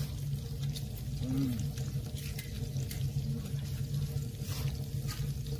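Pork belly and shrimp sizzling in the fat on a cauldron lid over a wood stove, with scattered small crackles and pops over a steady low hum.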